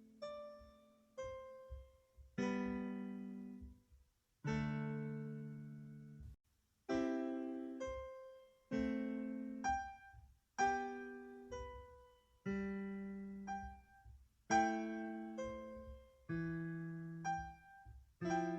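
Background piano music: slow, gentle chords and single notes, each struck and left to fade.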